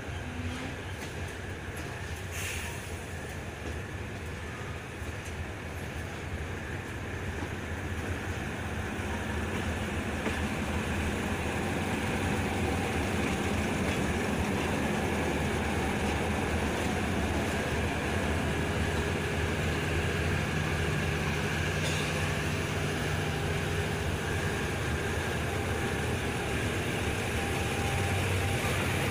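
Passenger train rolling slowly on the rails, heard from inside the carriage, with a steady low engine hum that grows louder in the second half as it runs in past standing diesel locomotives.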